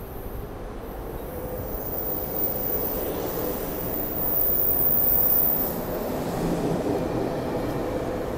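SEPTA Silverliner IV electric multiple-unit commuter train pulling into the station and rolling past close by, its wheels rumbling on the rails with a faint high wheel squeal. The sound grows louder as the cars come alongside, is loudest about four to five seconds in, then eases slightly.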